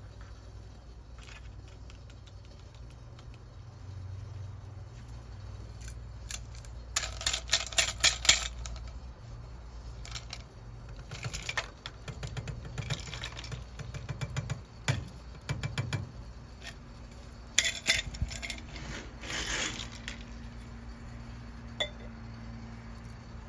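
Clinking and clattering of small hard items, metal or glass, being handled and set down, in several short bursts over a steady low hum; the busiest clatter comes about a third of the way in and again near the end.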